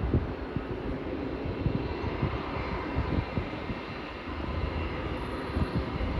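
Jet engines of a British Airways Airbus A319 airliner heard steadily as it lands, with wind gusting on the microphone in short low buffets.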